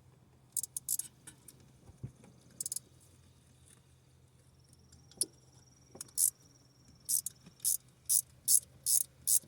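Sharp, short clicks of hand tools on metal: scattered at first, then a steady run of about two clicks a second near the end.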